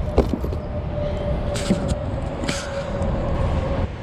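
Knocks and handling noise as a bass is landed by hand into a kayak, over a steady low rumble. A thin steady hum runs from about a second in until near the end.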